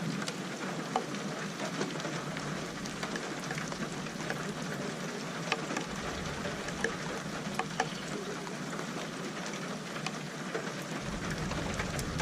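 Steady rain falling, with scattered sharp drop ticks. Near the end a low rumble of thunder begins to build.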